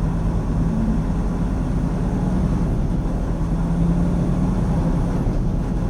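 Semi truck's diesel engine running with a steady low hum and rumble, heard from inside the cab in slow traffic.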